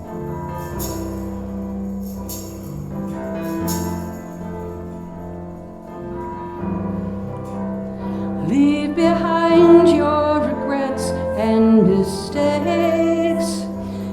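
Live church worship band playing a slow song: held chords with light tambourine or cymbal hits, then a singing voice comes in about eight seconds in and the music grows louder.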